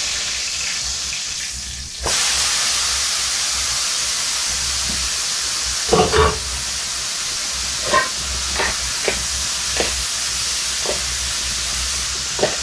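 Boiled cauliflower pieces frying in hot oil with chilli powder in a pan. The sizzle jumps louder about two seconds in as they go in, then a spatula knocks against the pan several times while the pieces are stirred.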